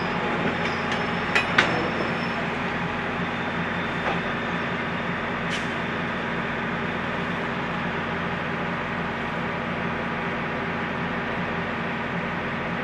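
A train rolling, with a diesel locomotive engine running steadily underneath. There are two sharp knocks about a second and a half in, and a brief high squeal about five and a half seconds in.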